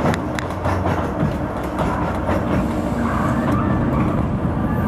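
Oigawa Railway Ikawa Line narrow-gauge train running along the track: a steady low rumble from the running gear with a few sharp clicks from the wheels early on. A higher whine joins about three seconds in.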